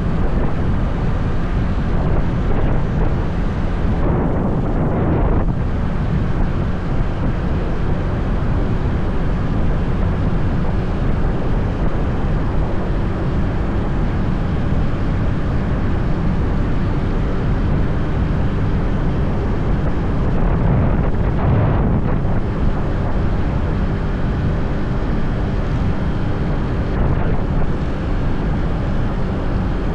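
Motorbike riding: steady wind rush on the microphone over the bike's engine running, with two brief swells of louder noise, around five seconds in and again past twenty seconds.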